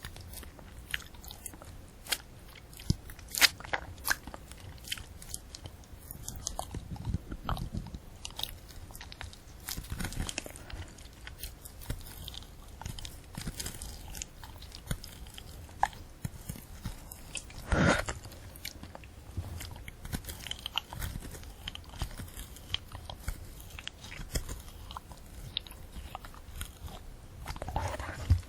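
Close-miked eating of a candy apple: the hard red sugar coating and crisp apple flesh crunching and cracking under the teeth, with wet chewing in between. Loud crunches stand out about three and a half seconds in and again about eighteen seconds in.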